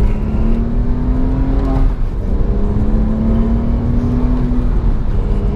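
Porsche 911 (997) Carrera's naturally aspirated flat-six accelerating hard under full throttle, its note rising, dropping at an upshift about two seconds in, then rising again until the throttle eases near the end, over heavy tyre and road rumble.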